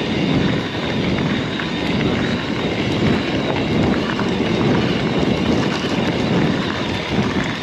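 Wind buffeting an action camera's microphone while riding an e-mountain bike over rough ground, with tyre rumble and many small rattles and ticks from the bike.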